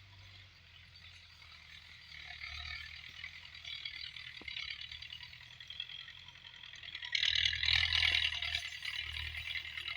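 Belarus 510 tractor running through field work, a low steady engine hum under a rattling clatter. The clatter grows louder about two seconds in and is loudest from about seven seconds in for a second or so.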